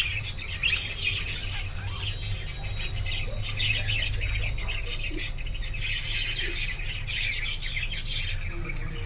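Budgies chattering and squawking continuously, several birds calling over one another.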